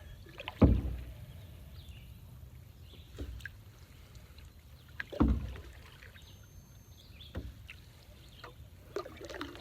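Canoe paddling: a paddle knocking against the canoe's gunwale, loudest about half a second in and again about five seconds in, with lighter knocks and water noise between.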